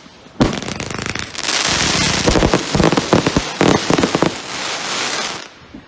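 Fireworks going off: a sharp bang about half a second in, then a dense barrage of crackling and heavy bangs that stops suddenly shortly before the end.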